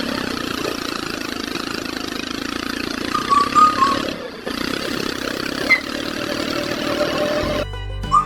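A small motor running steadily. Near the end it cuts to background music with a whistled tune.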